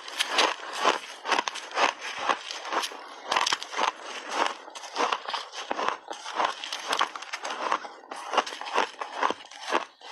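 Close-up crunching and chewing of big bites of refrozen ice, a dense run of irregular cracks and crackles as the teeth break the chunks.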